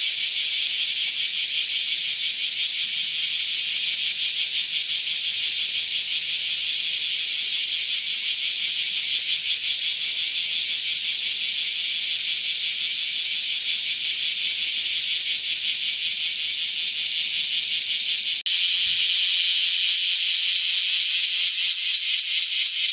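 Cicada calling: a loud, high, rapidly pulsing buzz that carries on without pause, with a brief break about 18 seconds in before a similar buzz resumes.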